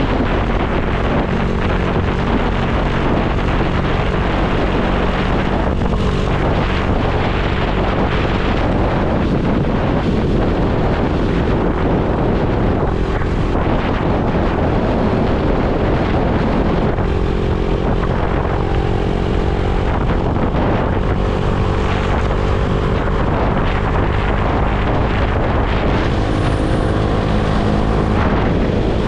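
Motorcycle engine running at road speed under heavy wind rush on the microphone; the engine note shifts about halfway through.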